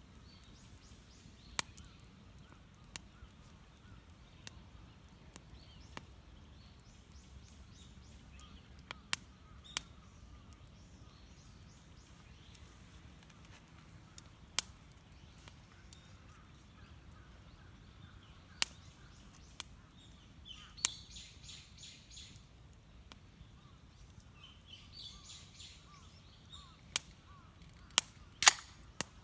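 Wood campfire crackling with sharp, irregular pops. A small bird chirps in two short runs, about 21 seconds and 25 seconds in.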